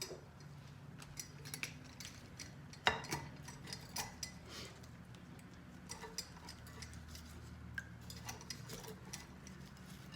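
Scattered light clicks and knocks of small jars and kitchen utensils being handled as quartered salted lemons are packed in, with one sharper knock about three seconds in, over a faint low hum.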